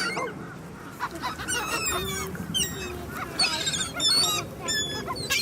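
A flock of birds calling over one another in many short, repeated squawks and honks as they crowd in for bread thrown to them.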